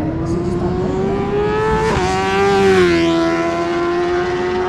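A 1000 cc superbike racing motorcycle at full throttle. Its engine note climbs steadily, drops sharply on an upshift about two seconds in, and is loudest just after, as it passes close by.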